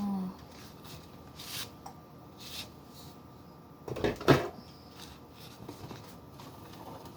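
Cans and bottles being moved around on refrigerator shelves: scattered light knocks, with a louder clatter about four seconds in.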